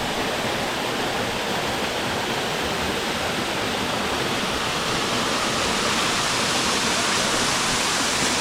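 Waterfall water rushing, a steady, even noise.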